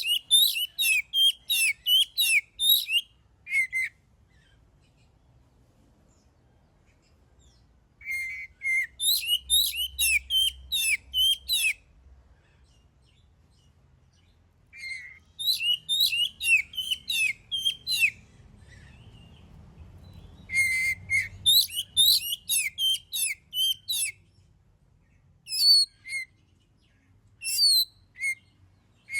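Oriental magpie-robin (kacer) in full song: phrases of rapid, repeated high whistled notes lasting a few seconds each, separated by short pauses, with scattered single notes near the end.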